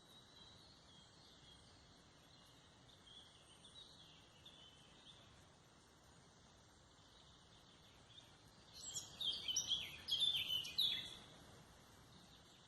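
A songbird singing: faint high chirps at first, then about nine seconds in a loud, rapid song phrase of quick, sweeping high notes lasting about two seconds, over faint forest background noise.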